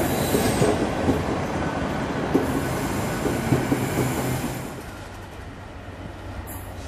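Intermodal container freight train's wagons rolling away on the rails: a steady rumble with a few short knocks, fading after about five seconds as the train moves off.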